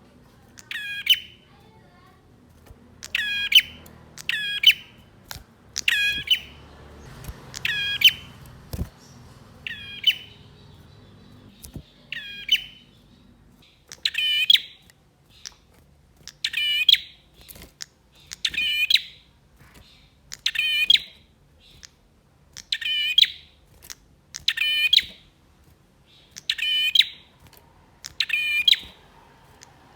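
Male prenjak (prinia) calling: short, bright, repeated calls of the same shape, irregular at first and then steady at about one every two seconds from halfway through.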